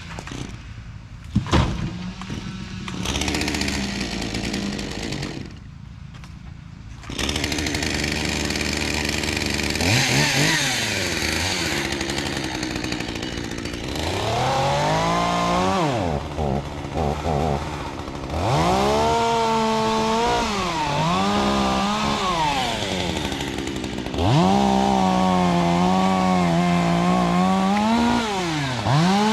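Chainsaw running, its engine revving up and falling back to idle again and again, with a single sharp knock a second or two in.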